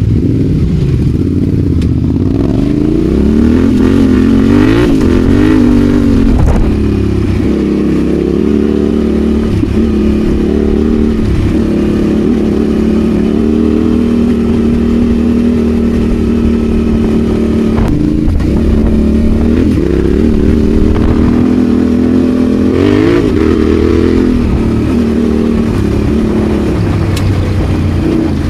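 Yamaha Ténéré 700's parallel-twin engine riding off road, its pitch rising and falling as the throttle is opened and closed. A few sharp knocks sound over it.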